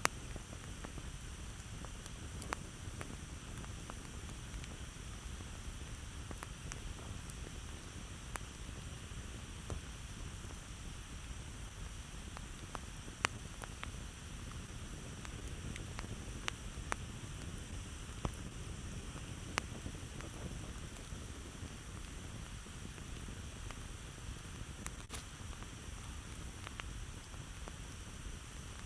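Campfire burning, with irregular sharp crackles and pops, a few seconds apart, over a steady low noise.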